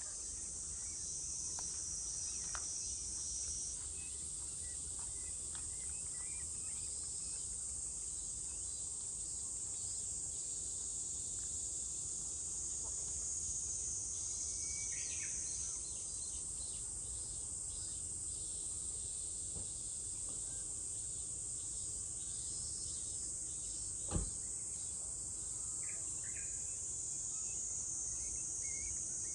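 Summer cicadas droning in a continuous high-pitched chorus, with a second cicada joining in three times for a few seconds each. Small birds chirp here and there, and one sharp knock sounds about 24 seconds in.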